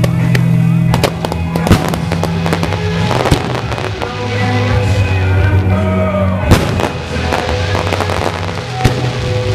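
Fireworks cracking and banging at irregular intervals over live band music with a steady bass line. The loudest bang comes about six and a half seconds in.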